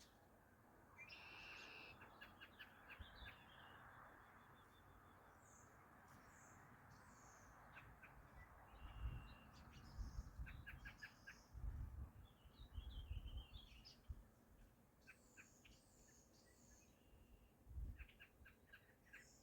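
Several wild birds chirping, whistling and trilling faintly, with short calls and rapid trills scattered throughout. Low rumbles come and go in the middle and near the end.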